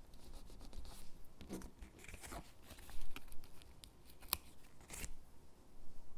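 Stickers being peeled off their backing sheet and pressed onto paper gingerbread cutouts: soft paper rustles and crackles with a few sharp clicks, the sharpest about four seconds in.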